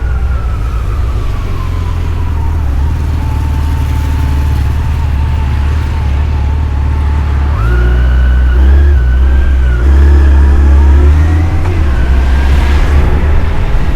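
Yamaha FJR1300 inline-four motorcycle engine running under way, with wind rush. Its pitch sinks slowly over the first few seconds, then jumps up about seven and a half seconds in as the revs change.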